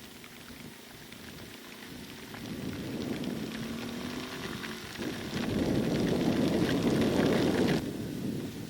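Heavy rain pattering on a motorcycle rider's helmet and microphone while riding. It builds from about two seconds in, is heaviest over the last few seconds, then drops off suddenly about a second before the end.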